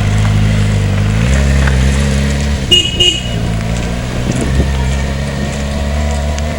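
Car engine running, its note changing about a second in as it pulls away, with two short toots of the car horn about three seconds in.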